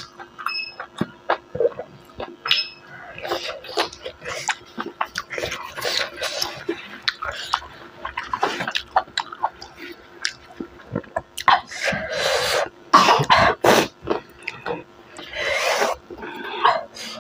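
Close-miked chewing of beef innards and rice, with wet lip smacks and mouth clicks, and a few louder breathy bursts in the second half.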